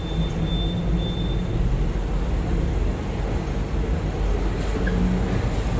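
Steady low engine rumble with a hum underneath and a faint hiss; a thin high whine fades out about a second and a half in.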